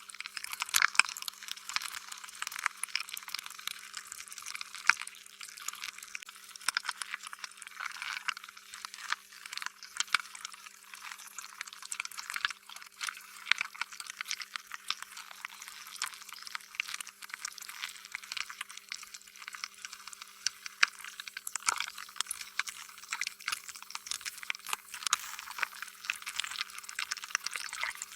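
Slime being squished and worked by hand: continuous wet squelching, broken by many irregular sticky clicks and pops. A faint steady hum runs beneath.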